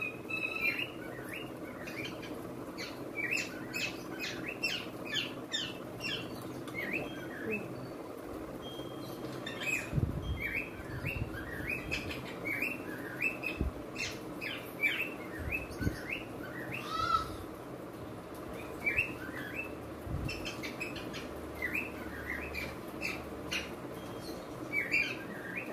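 Small birds chirping in quick clusters of short, high calls, with a few soft low thumps in between.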